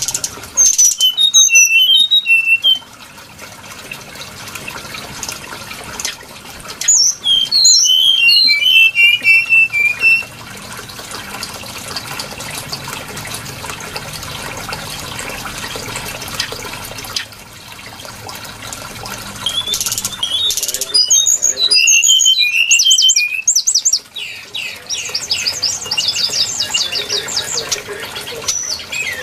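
Brown-chested jungle flycatcher song: phrases of quick, high whistled notes that tumble downward in pitch, coming in separate bursts of two to four seconds. The last burst is a fast run of repeated notes. A steady background hiss runs underneath.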